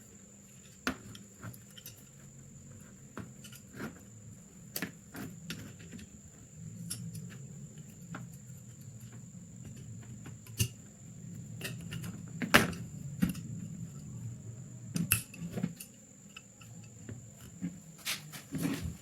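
Metal gun parts being handled on a workbench: scattered clicks and knocks, with one sharper knock about two-thirds of the way through.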